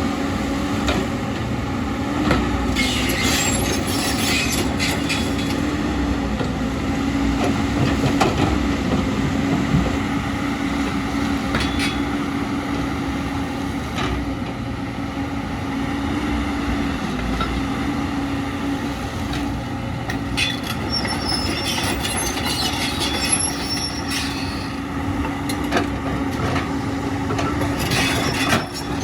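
Excavator's diesel engine running steadily at working revs, with bursts of high-pitched metallic scraping and squealing a few seconds in and again past the middle as the machine works rock.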